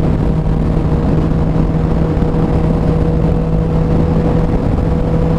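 Yamaha MT-09's inline three-cylinder engine through an Arrow Street Thunder exhaust with carbon tip, cruising at steady revs, mixed with a rush of wind noise.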